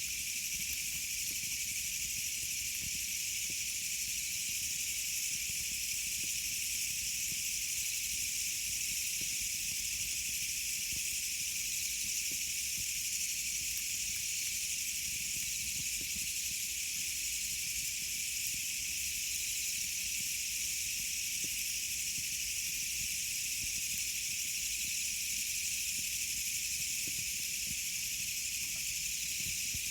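Campfire burning: a steady high hiss with faint small crackles.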